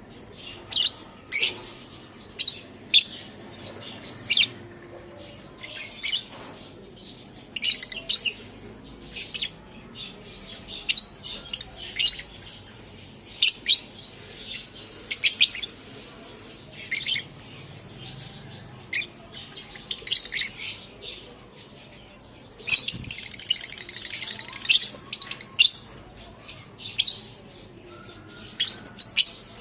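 Lovebirds calling: repeated short, high-pitched chirps, with a burst of rapid continuous chattering about three-quarters of the way through.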